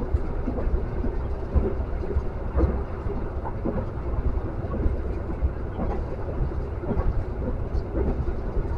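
Running noise inside a moving passenger train coach: a steady low rumble from the wheels and track, with occasional short knocks.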